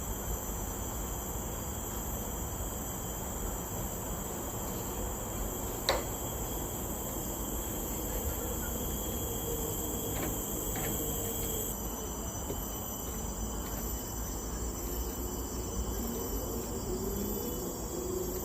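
Forest insects shrilling in a steady chorus of several high, continuous tones, one of which drops away about twelve seconds in, over a low background rumble. A single sharp click about six seconds in.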